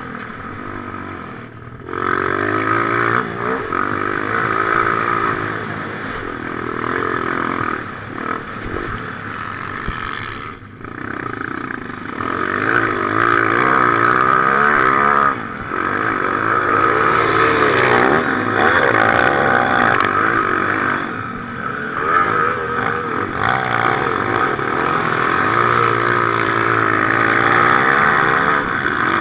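Motocross motorcycle engine running hard, revving up and down again and again, with brief throttle-off dips twice.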